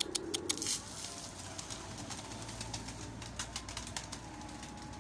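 Domestic pigeons cooing, with a quick run of sharp taps in the first second and lighter scattered taps after it, as the birds peck at grain thrown down for them.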